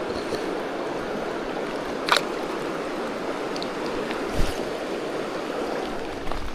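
Fast-flowing river water rushing steadily, with two brief knocks about two and four and a half seconds in.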